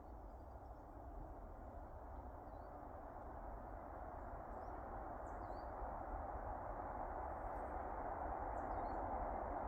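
A few faint, short bird chirps over a steady outdoor noise that slowly grows louder.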